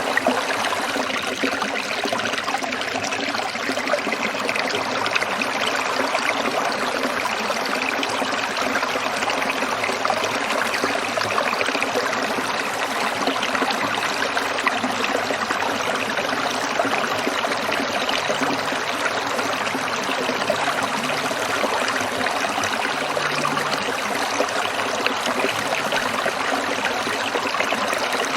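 Stream water trickling and splashing over rocks, a steady, even burble.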